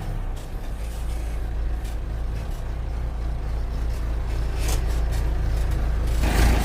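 Engine of a heavy working machine running with a steady low rumble, growing louder about six seconds in.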